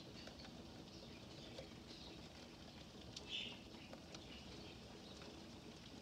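Faint, steady patter of rain, with scattered light drip ticks. A short, high chirp stands out about three seconds in.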